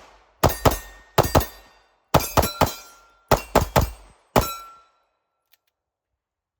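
Ported Atlas Apollo 2011-style pistol firing about ten shots in rapid strings of two to four, the last one about four and a half seconds in.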